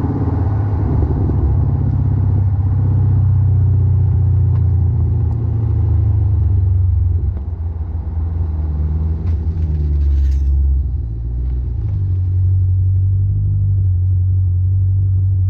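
Jeep Grand Cherokee SRT's 6.4-litre V8 idling through an XForce cat-back exhaust with its Varex valve open, a steady deep rumble. The loudness dips briefly twice in the second half.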